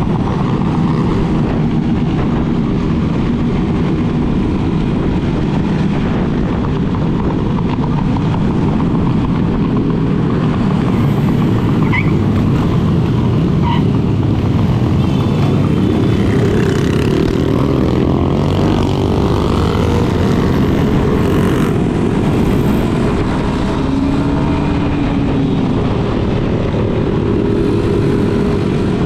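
Motorcycles running steadily under way in a large group ride, the ridden Yamaha Lander 250's single-cylinder engine among them, with a dense, even blend of engine and road noise.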